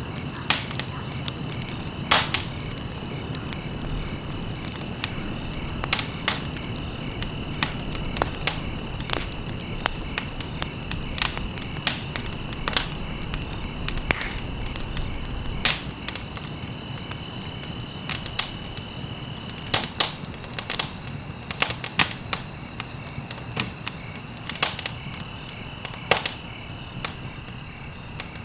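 Wood fire crackling, with irregular sharp pops and snaps over a low, steady rush of flame. A steady high-pitched tone runs underneath.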